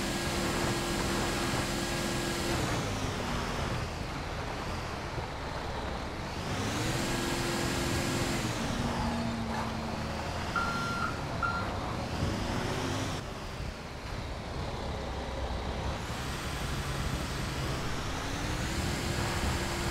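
Heavy truck engine running under load, its pitch rising, holding and dropping back several times as it revs up and eases off. Two short high beeps sound about halfway through.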